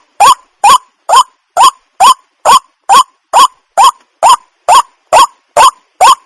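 Waterhen calling: the same short, rising note repeated steadily, a little over two calls a second.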